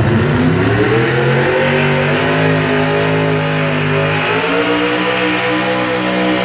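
Truck-pulling truck's engine running hard under load, pitch rising over the first two seconds and then held high and steady, with a change in its note about four and a half seconds in.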